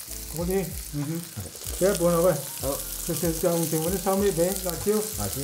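Garlic, shallots, green onions and chilies sizzling in hot oil in a wok, with a man talking over the sizzle.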